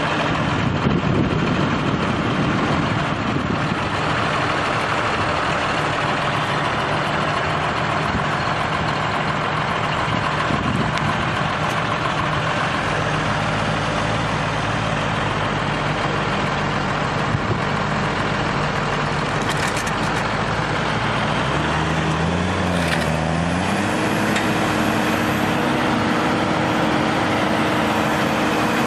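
Heavy vehicle's engine running steadily. About two-thirds of the way through its pitch dips briefly, then rises and holds at a higher, steady speed.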